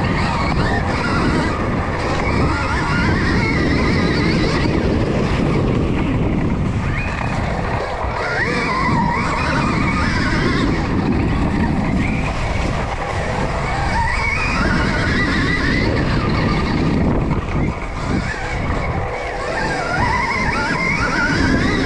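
Electric Stark Varg dirt bike ridden hard, heard from an onboard camera: the motor's high whine rises and falls with the throttle, over steady wind and knobby-tyre noise.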